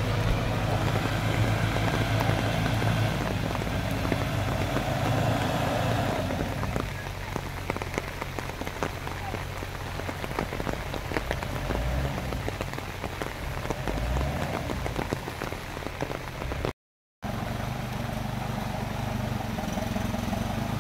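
Heavy rain falling in a dense patter of drops, with an off-road vehicle's engine running low beneath it for the first six seconds or so; after a brief dropout near the end the engine hum returns under the rain.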